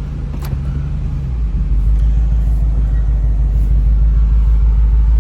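2004 Lexus GX470's 4.7-litre V8 through an R4T cat-back exhaust, given a little throttle; the low exhaust drone deepens and grows louder about a second and a half in.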